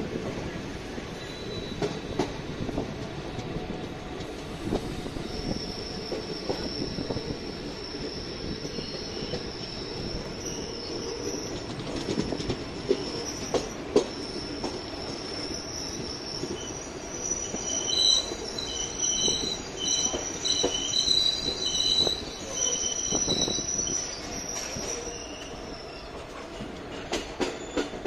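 Passenger train rolling through a station, heard from on board: steady rumble and clatter of wheels on the rails. From about five seconds in comes a high, steady metal-on-metal squeal, joined by a stuttering higher squeal in the last third. Sharp clatter follows near the end.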